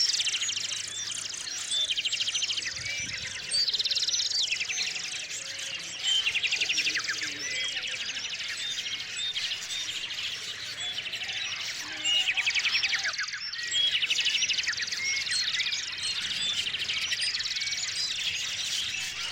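Small songbirds chirping at a bird feeder, with a fast trilled song repeated every few seconds over many short chirps.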